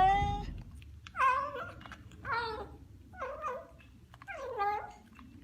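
Domestic cat meowing: a call trailing off at the start, then four short meows about a second apart.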